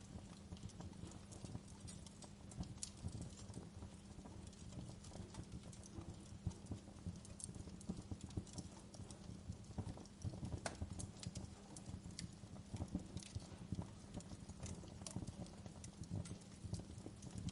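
Wood fire crackling in a fireplace: irregular, scattered pops and snaps over a low steady rumble.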